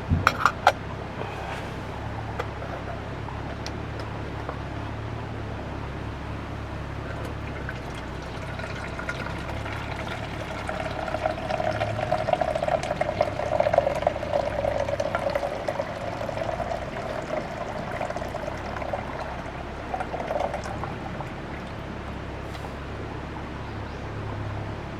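Water being poured steadily into a container for about ten seconds, starting around ten seconds in, after a few short clicks at the very start.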